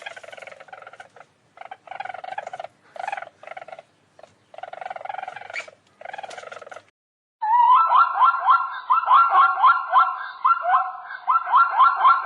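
Animal calls: about five short, pulsed calls in the first half, then after a brief gap a louder, continuous run of quick, repeated rising chirps.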